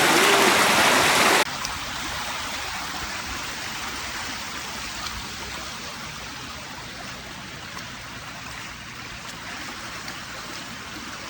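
Rainwater rushing down a flooded footpath like a stream, loud at first, then dropping suddenly about a second and a half in to a quieter steady rush of running water.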